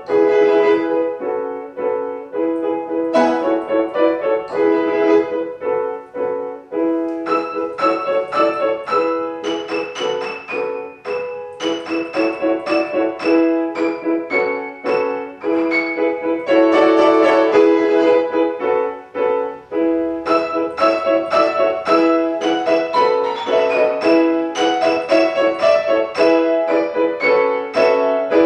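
Piano and violin playing classical chamber music: a brisk passage of short, quickly repeated notes.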